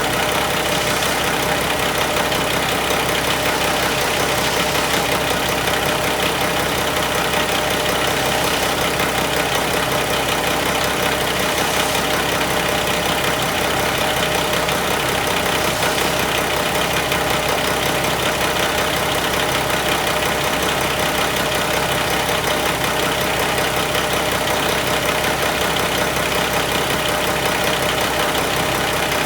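2005 Mack E7 inline-six diesel engine idling steadily, its running note unchanging throughout.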